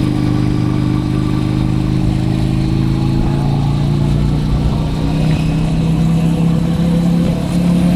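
Motorcycle engine running under way, heard from the rider's helmet. Its note changes about three seconds in, then holds steady and climbs slightly toward the end.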